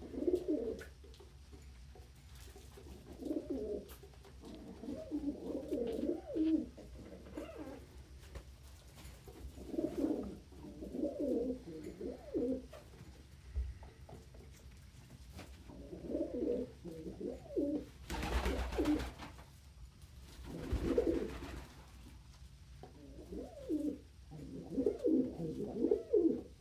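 Domestic pigeons cooing in low, repeated phrases every couple of seconds, with two brief rushes of noise about two-thirds of the way through.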